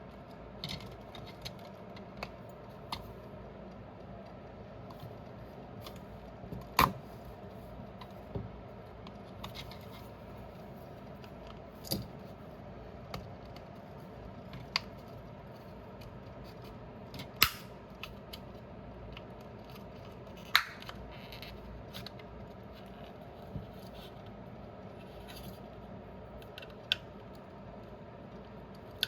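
Scattered sharp clicks and taps of small tools against plastic parts while a pair of wireless headphones is taken apart, a few seconds apart, over a steady hum.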